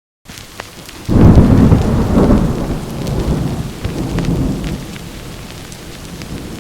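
Rain falling steadily, with a loud roll of thunder that breaks in about a second in and rumbles on, slowly fading.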